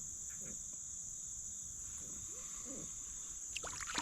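A steady, high-pitched chorus of insects such as crickets, shrilling without a break. Near the end a short burst of noise cuts in.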